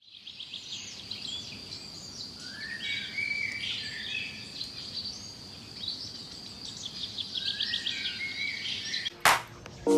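Pet cockatiel chirping and warbling continuously, with quick rapid trills and high squeaky notes. A sharp loud click comes about nine seconds in.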